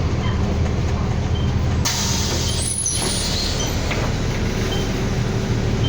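City bus running, heard from inside, with a steady engine hum. About two seconds in comes a burst of compressed-air hiss lasting about a second.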